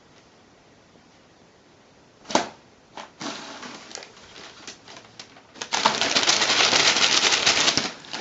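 Thin paper flyer crinkling and rustling as a cat attacks it. A sharp crackle comes about two seconds in, then scattered rustles, and from about six seconds a loud, continuous crackling rustle of the paper being mauled.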